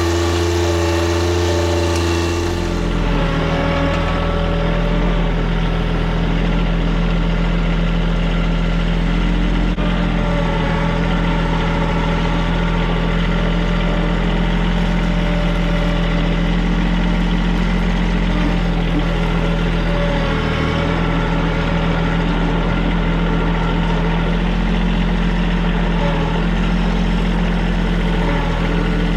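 Compact TYM tractor's diesel engine running steadily while it works. The engine note changes about two and a half seconds in, then holds steady.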